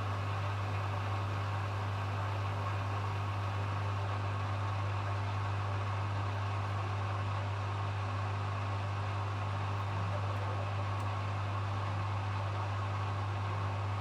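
Hoover HW411AMC washing machine running steadily with a constant low hum over a even whirring noise.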